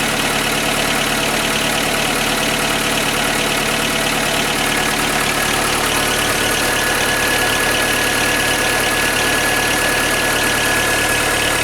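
Skoda Fabia 1.4 16V MPI (BKY) four-cylinder petrol engine idling steadily after an overnight cold start, with a light, barely audible knock typical of cold piston slap. A faint high steady tone joins about five seconds in.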